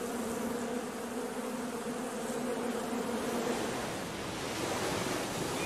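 A swarm of honeybees buzzing, a steady hum that fades about four seconds in, giving way to the wash of ocean surf.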